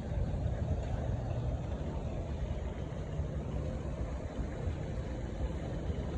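Car driving along a road: a steady low engine and road rumble.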